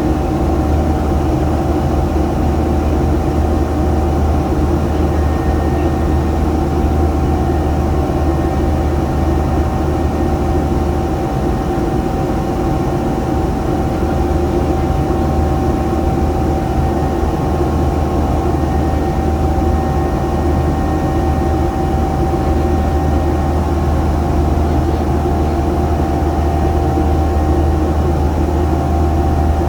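Airliner cabin noise with the engines running steadily: a constant low rumble with a few steady engine tones above it.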